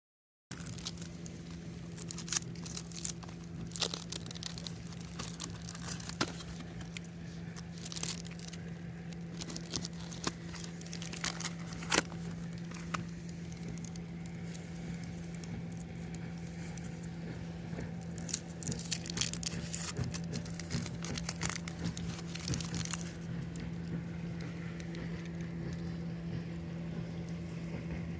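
Dry wood crackling and snapping in irregular bursts, busiest about two-thirds of the way through, over a steady low hum.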